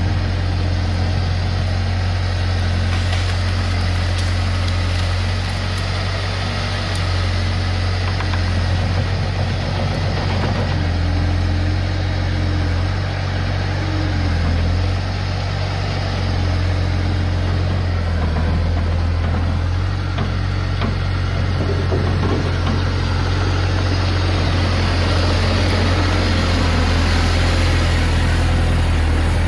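Diesel engine of a Bobcat T250 skid-steer loader running steadily at a constant speed, with small shifts as the load changes.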